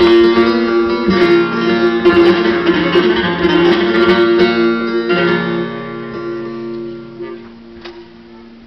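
Bağlama (Turkish long-necked saz) playing quick plucked runs over a steady drone note; the playing thins out and fades away over the last two or three seconds.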